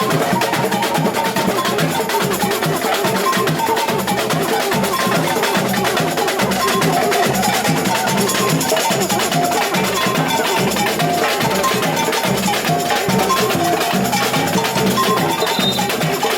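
Samba music: a percussion section of drums and shakers playing a dense, fast samba rhythm, with a melody line over it.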